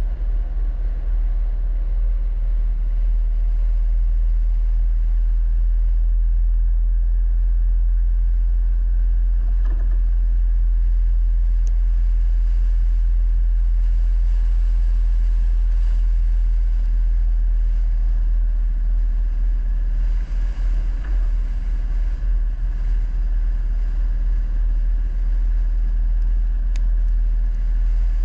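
Vehicle on the move: a steady, loud, low rumble of engine and road noise.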